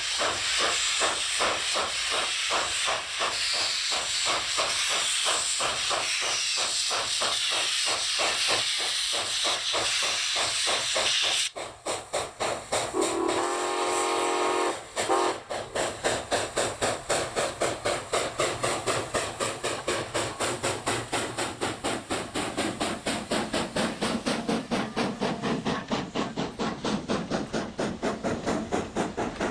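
Steam locomotive working under load: rhythmic exhaust chuffs over heavy steam hiss, which changes abruptly about a third of the way in to clearer, quicker chuffing. About 13 seconds in comes a single chime-like steam whistle blast lasting about two seconds.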